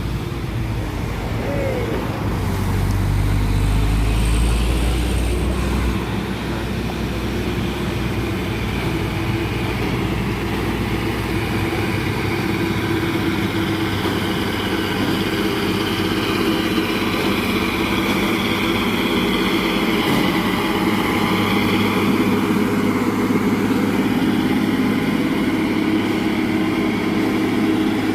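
Heavy truck engine labouring up a steep grade, with a deep low rumble for a few seconds, then a steady engine drone with a high whine above it.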